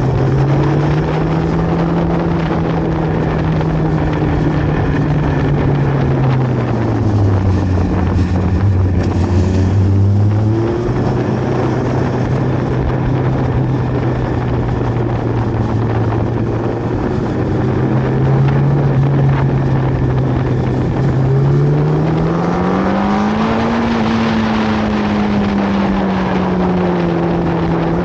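Litre-class inline-four superbike engine running on the road under wind noise. Its pitch dips lower from about 7 to 10 seconds in, then holds steady, and climbs as it revs up near the end before easing off.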